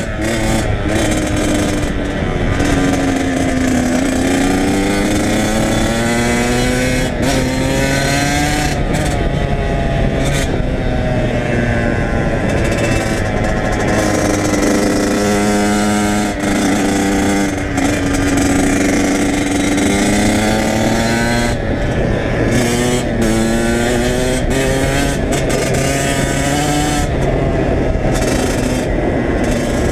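Kawasaki KX100 two-stroke dirt bike engine under way, its pitch climbing and dropping again and again as the throttle opens and closes.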